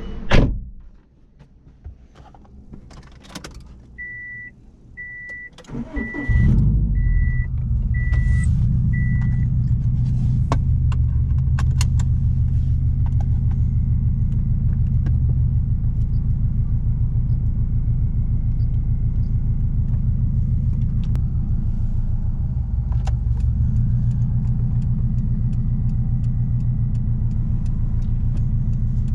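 A thump and some small rattles, then a chime beeping six times about once a second. About six seconds in, the 2006 Subaru WRX STI's straight-piped turbocharged 2.5-litre flat-four starts and settles into a loud, steady idle with a low exhaust rumble.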